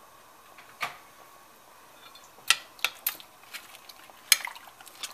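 A cooking utensil knocking against a pot while the stew is stirred: about five sharp clinks at irregular intervals.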